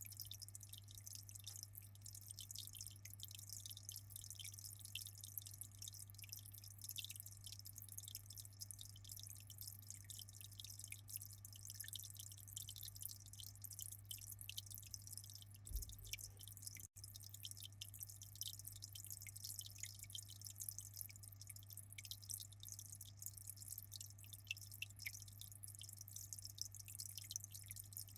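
Aquarium water trickling and dripping in a fine continuous patter, over a steady low electric hum from the tank's pump or filter.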